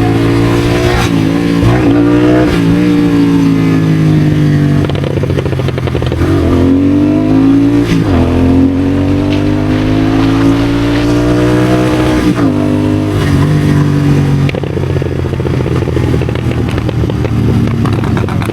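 Royal Enfield Continental GT650 parallel-twin with a Red Rooster aftermarket exhaust and CODE6 tune, accelerating hard through the gears. Its pitch climbs and drops at each shift, and there are a few sharp pops on the overrun.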